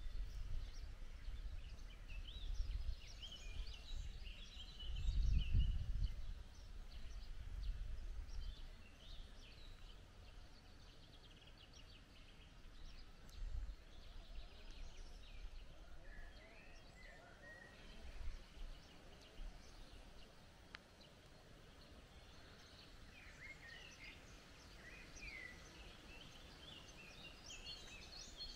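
Small birds singing and calling in short, scattered chirps and warbles. Under them is a low rumble, like wind on the microphone, heaviest in the first eight seconds.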